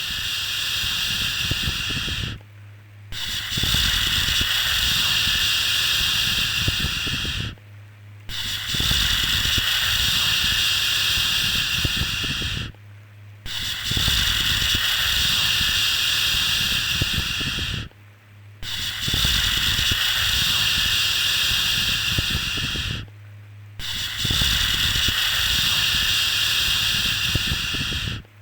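Repeated 'shhh' shushing sound for soothing a baby: a long hiss of about five seconds, a short breath-like break, then the next, in a steady regular rhythm over a faint low hum.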